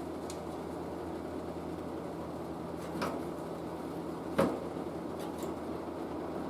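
Steady mains hum and hiss from a running vacuum-tube TV set, with two brief clicks about a second and a half apart, the second louder.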